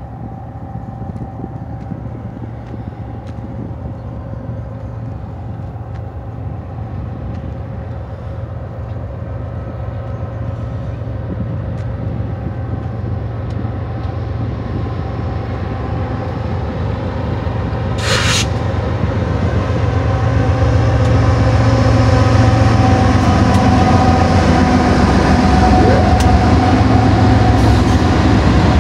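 Diesel-electric freight locomotives of a BNSF stack train approach and pass close by: a GE ES44C4 leading four GE Dash 9-44CW units. Their steady low engine rumble grows louder throughout, with a brief hiss about two-thirds of the way through.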